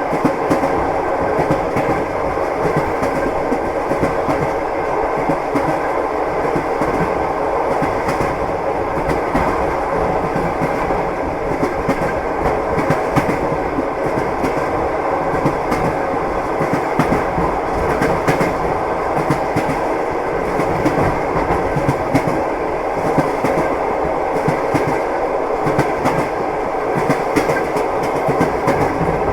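Train wheels clattering over the rails: a steady running rumble with repeated short clicks and knocks from the wheels.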